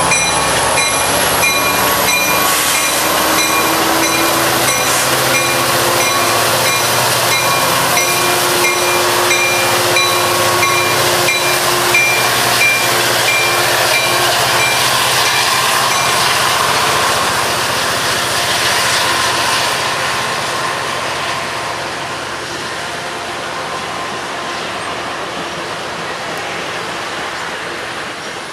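Amtrak diesel locomotive and bilevel passenger cars passing close by: engine running and wheels clattering on the rails, with a tone rising in pitch over the first few seconds. A high, evenly pulsing ringing sounds until about halfway. The noise then fades over the last ten seconds as the train pulls away.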